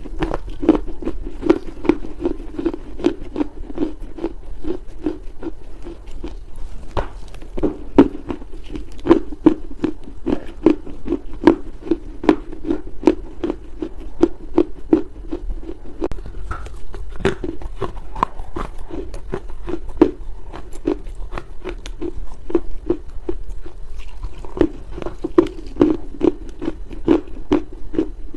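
A person chewing soft chunks of Chinese loess (dried earth), crunching steadily at about two to three chews a second with many sharp, crisp crackles.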